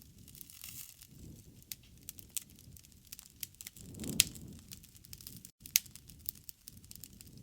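Wood campfire crackling, with irregular sharp pops over a soft low rush of the flames; the loudest pop comes about four seconds in.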